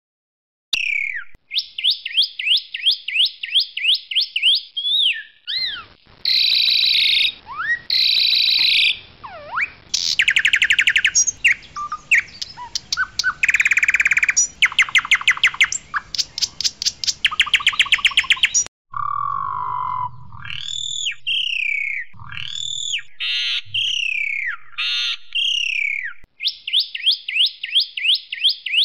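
Asian pied starling (jalak suren) singing a loud, varied song. It moves through runs of quick repeated chirps, harsh buzzy phrases, fast rattling trills and slurred whistled notes.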